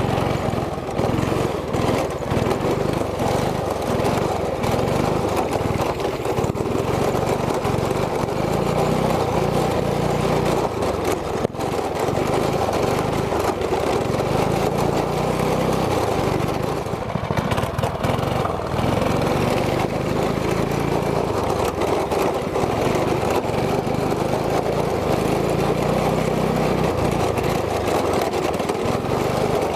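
A 212cc single-cylinder go-kart engine running under throttle, its revs rising and falling again and again as the kart is driven around.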